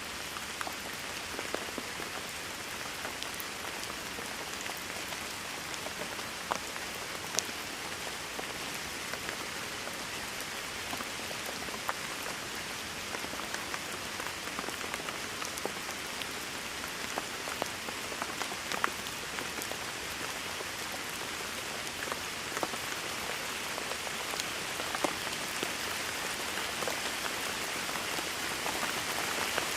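Steady rainfall hissing on a surface, with scattered sharper drips and patters standing out from it. It grows slightly heavier near the end.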